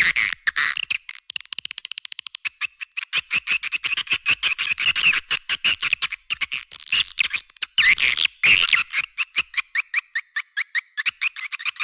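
Swiftlet calling-sound lure track: a dense, fast string of short high chirps and twittering clicks, many per second, with brief gaps. The low end is cut away, leaving only the high part of the calls.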